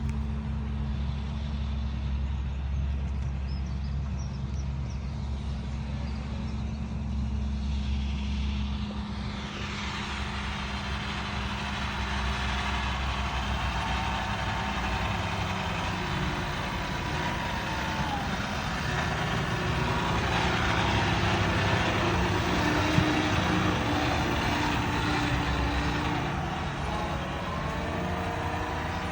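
Farm tractor engines running steadily at work. About nine seconds in, a louder, fuller machinery noise joins and continues, with some rising and falling engine tones.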